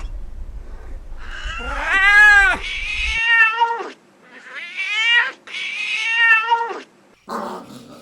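Cat meowing in about four long, drawn-out calls, one after another. A different, rougher sound cuts in near the end.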